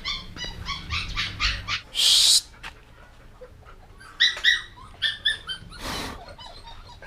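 A dog whining and yelping in rapid runs of short, high-pitched cries, with someone shushing it once a little over two seconds in.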